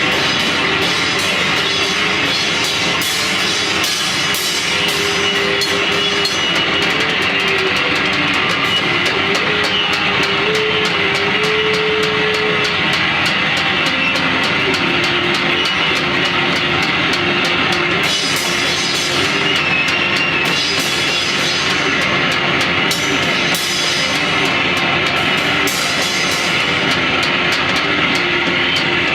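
Rock band playing continuously and loudly, with a drum kit and guitar under a wandering melody line.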